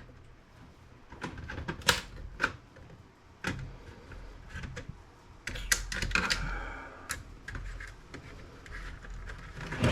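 Scattered sharp plastic clicks and snaps from a laptop's plastic case being handled and pried apart, with a short creak about six seconds in.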